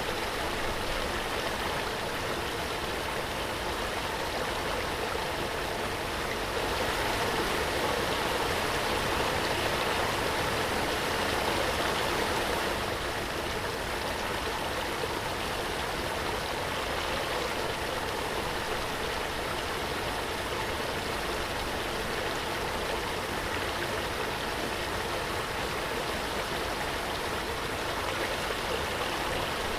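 Waterfall: a steady rush of falling water, swelling slightly for a few seconds before settling back.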